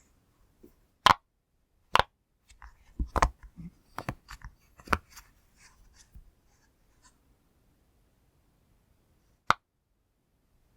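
Silicone pop-it fidget toy being pressed, its bubbles popping in sharp single pops at irregular intervals, with softer clicks and rubbing between them. After a pause of a few seconds, one last pop comes near the end.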